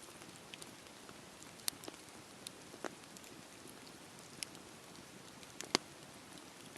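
Wood campfire burning: a soft steady hiss with irregular sharp crackles and pops, the loudest pop late on.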